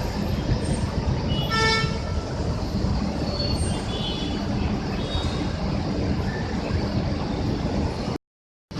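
City bus traffic at a busway stop: steady engine and road noise, with one short horn toot about a second and a half in. The sound drops out completely for half a second near the end.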